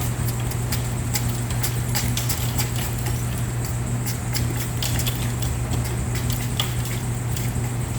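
Chisel cutting into a block of ice, giving many irregular sharp clicks and scrapes as chips come away, over a steady low hum.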